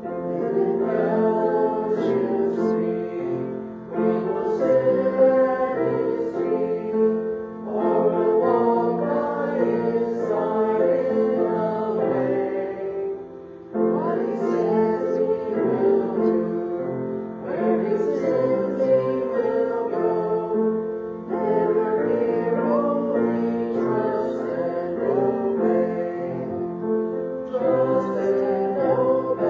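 Church music: voices singing a hymn in phrases, with instrumental accompaniment.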